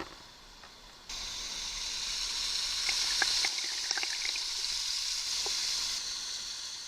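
Small creek's water rushing, a steady hiss that comes in suddenly about a second in, with a few faint splashing ticks over it, and fades away near the end.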